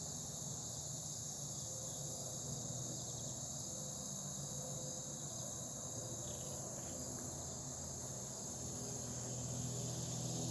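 Steady, high-pitched chorus of insects, such as crickets, running without a break, with a faint low drone growing underneath near the end.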